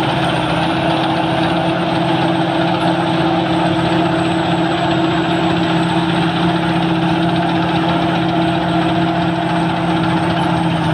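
Sakpattana KM-D rice combine harvester running steadily, its diesel engine holding an even, unchanging hum under a wash of machinery noise.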